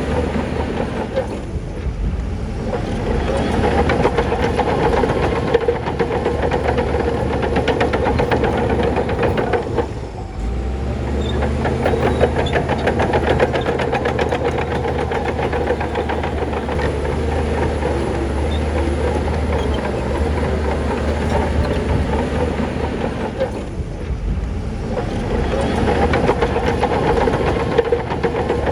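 Crawler bulldozer's diesel engine running under load, with a rapid metallic clatter of its steel tracks; the engine eases briefly twice.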